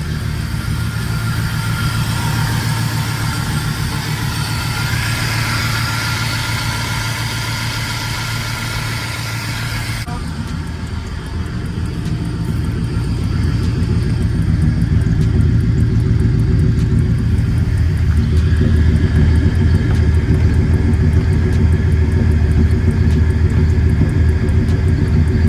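Rebuilt car engine running at idle with a steady low rumble. The sound changes abruptly about ten seconds in and gets louder from about thirteen seconds on.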